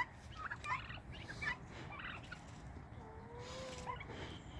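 Chickens calling faintly: a few short clucks and chirps, then one drawn-out, slightly falling call about three seconds in.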